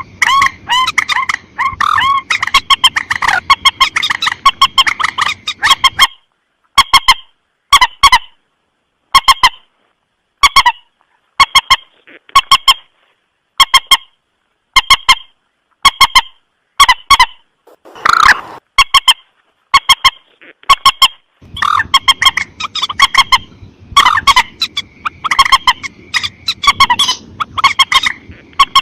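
Common moorhen (Gallinula chloropus) calling: loud, short, honking clucks. They come in rapid runs near the start and again near the end, with single or paired calls about a second apart in between.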